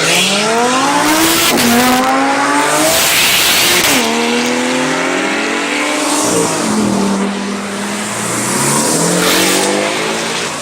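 High-performance engine accelerating hard through the gears, its note climbing in pitch and dropping sharply at each upshift, three times.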